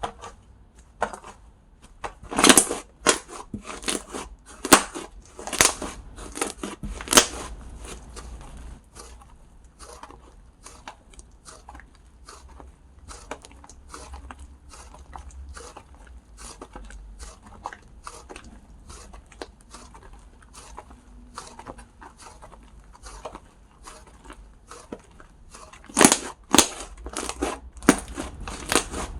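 Slime being pressed and worked by hand close to the microphone, giving a dense run of crackling clicks and pops. There are louder clusters of pops early on and again near the end.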